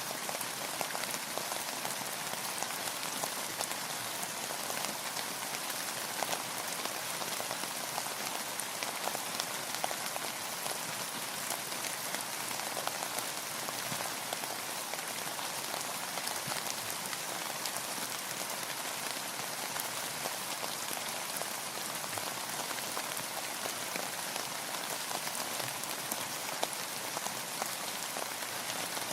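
Steady rain falling on a hard surface, a dense even hiss of countless small drop impacts with individual drops ticking through it.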